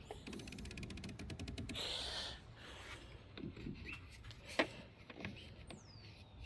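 Plastic cap being screwed back onto a reservoir in a car's engine bay: a fast run of fine clicks, a brief rub, then a few sharp plastic clicks and knocks as it seats.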